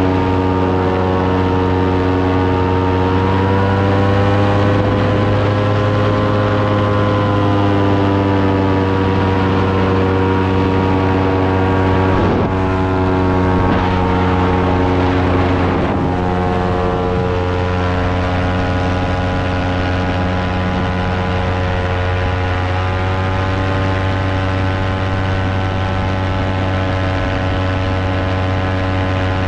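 Electric fan running steadily, its motor and spinning blades giving a loud, even hum whose pitch drifts slightly up and down. Brief disturbances break in about twelve seconds in and again a few seconds later.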